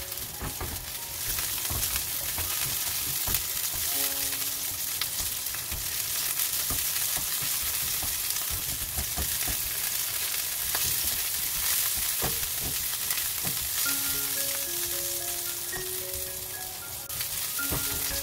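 Sliced garlic and ginger sizzling steadily in hot oil in a nonstick wok, with a few light clicks and scrapes of a silicone spatula stirring them. Faint background music notes come in about four seconds in and again near the end.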